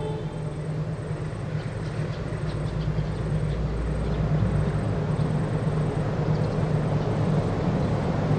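Diesel locomotive of an approaching passenger train, a low engine hum growing steadily louder, just after its horn blast cuts off at the start. A few faint high chirps come about two seconds in.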